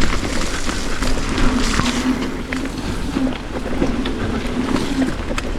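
Electric unicycle riding along a dirt trail: a steady hum from its hub motor over wind on the microphone and the rumble of the tyre, with scattered small knocks from bumps.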